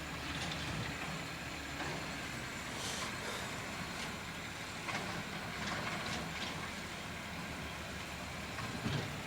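Garbage truck running steadily with a low rumble, with a few short knocks or clanks.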